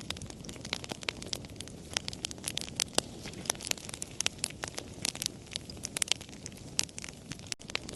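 Wood fire crackling: dense, irregular sharp pops and snaps over a soft low hiss. The sound drops out for an instant near the end.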